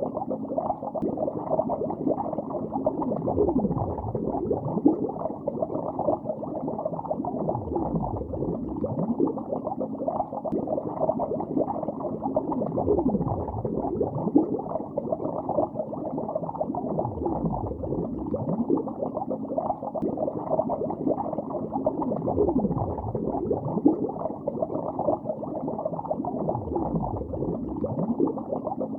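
Bubbles streaming and gurgling underwater, heard through the water: a dense, continuous, muffled bubbling with no highs, full of quick little rises and falls in pitch. A low swell comes and goes about every five seconds.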